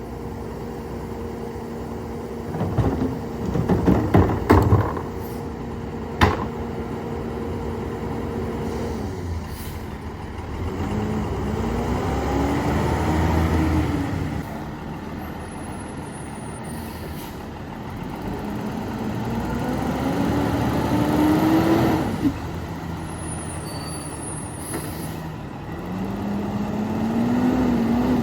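Diesel engine of a Peterbilt 348 rear-loader garbage truck. For the first several seconds it holds a steady hum, with a few sharp bangs. Then it revs up three times as the truck pulls away, each climb ending in a sudden drop at a gear shift.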